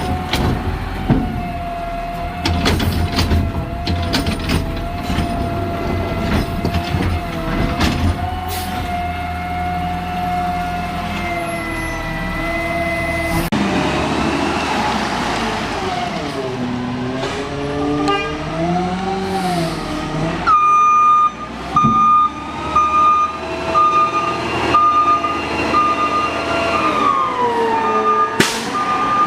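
Garbage truck running on route, its engine joined by a whine that holds steady, then slides up and down as the hydraulics work. From about two-thirds of the way through, a backup alarm beeps steadily.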